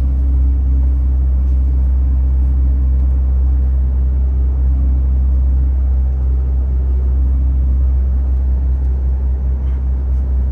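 MAN TGX 18.510 truck's 12.4-litre straight-six diesel engine running with a steady low rumble.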